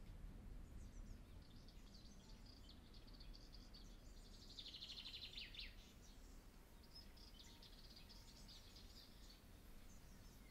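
Faint birdsong: many short high chirps, with a denser trill about halfway through, over a low background hiss.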